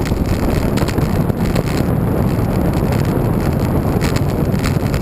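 Wind buffeting the microphone of a camera riding along on a moving bicycle: a steady, loud low rumble, with a few faint clicks over it.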